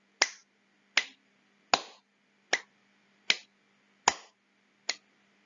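Hand claps at a steady, even pace, seven in all, a little more than one a second, sounding out a regular beat as an example of rhythm.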